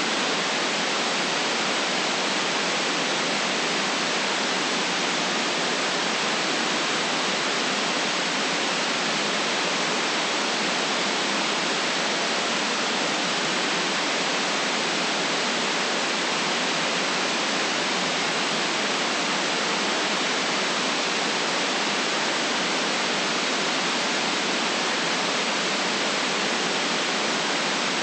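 Steady, unchanging white noise: an even hiss with no deep bass and no separate events.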